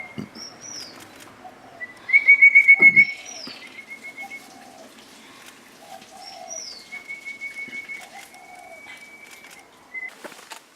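Wild birds singing: a fast trill of repeated whistled notes, loudest about two seconds in and given several times. Thin high down-slurred notes and short lower calls sound between the trills.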